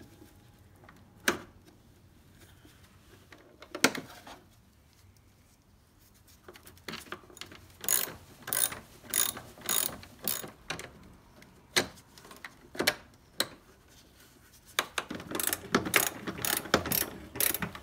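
Socket ratchet wrench clicking as a bolt is backed out: a couple of single clicks, then repeated short strokes of clicking, turning into a fast, dense run of ratcheting near the end.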